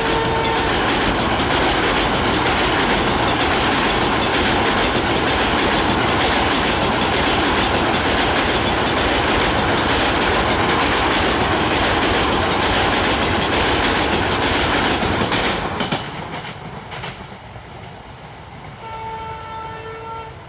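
Passenger coaches running fast over a steel girder rail bridge: a loud, continuous rumble and clatter of wheels on the rails and bridge. About 16 seconds in it gives way to a much quieter scene, and near the end a train horn sounds one steady blast of about a second and a half.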